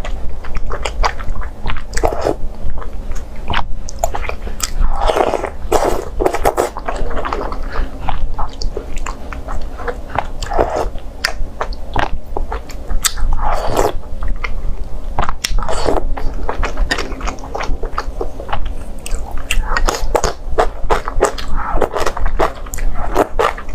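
Close-up biting and chewing of zalabia, crisp syrup-soaked fried dough, with a steady run of crunching and crackling clicks and a louder bite every few seconds.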